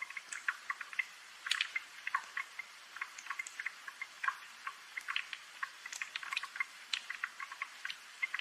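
Rain dripping: many small, irregular drops and light ticks, several a second, over a faint hiss.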